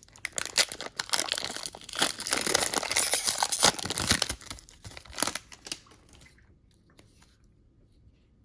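Trading-card pack wrapper being torn open and crumpled, a dense crackly crinkling and tearing that stops about six seconds in.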